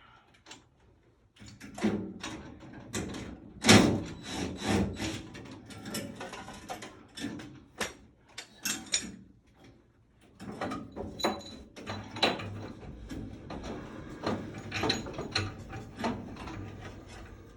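Irregular knocks, clicks and clatter of hand tools and metal parts being worked during a furnace installation, with a lull partway through.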